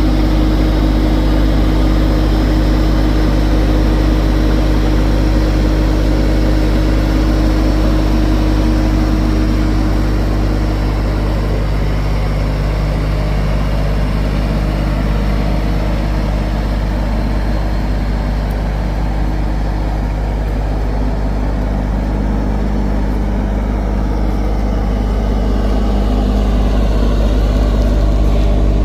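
Solis H24+ compact tractor's diesel engine running steadily, a little quieter through the middle and picking up again near the end.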